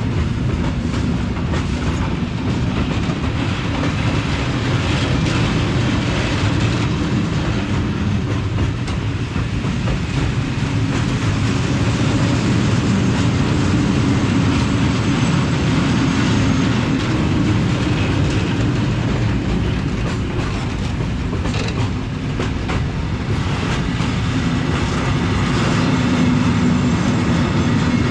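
Freight train rolling past, its wagon wheels clicking steadily over the rail joints for the whole stretch.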